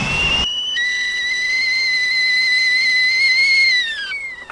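Whistling kettle at the boil: a steady, high, piercing whistle that sinks in pitch and fades near the end.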